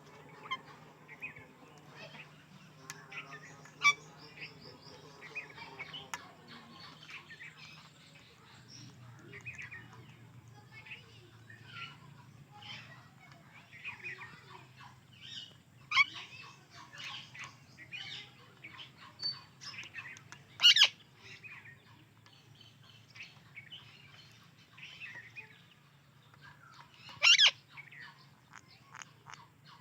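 Indian ringneck and alexandrine parakeets chirping and chattering in a busy run of short calls. A few much louder shrill calls stand out, the loudest two in the second half. A low steady hum runs underneath.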